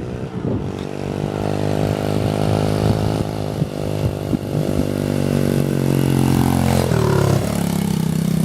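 Pit bike engine running, its note climbing slowly as it gets louder, then dropping sharply about seven seconds in and settling at a lower, steady note.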